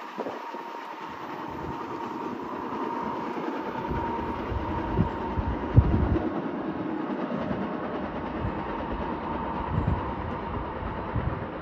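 An approaching Caltrain train, still some way off: a steady rumble that grows slowly louder, with a steady high whine running through it and a few low thumps.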